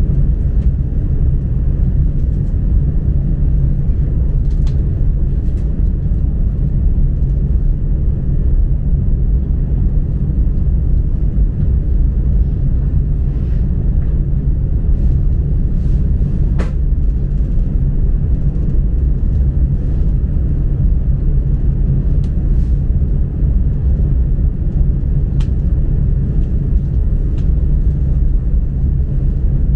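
Chinese high-speed bullet train running at speed, a steady low rumble heard from inside the carriage, with a few faint clicks.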